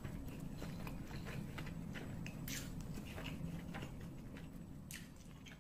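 Close-miked eating sounds of a person chewing and slurping noodles, with many small wet mouth clicks over a steady low rumble.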